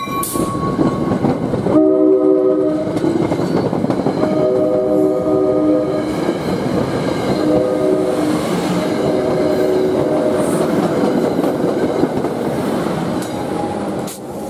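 NJ Transit commuter train passing close by: a steady rumble of coach wheels on the rails with clickety-clack. The train's multi-tone air horn sounds a chord in several blasts, starting about two seconds in and stopping shortly before the end, as the rear locomotive goes by.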